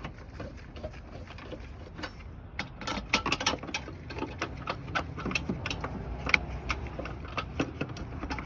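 Socket ratchet wrench clicking in quick, irregular runs while the battery hold-down nuts are tightened. The clicking starts about two and a half seconds in.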